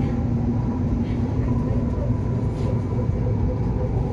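Metro train carriage running, heard from inside: a steady low rumble with an even motor hum over it.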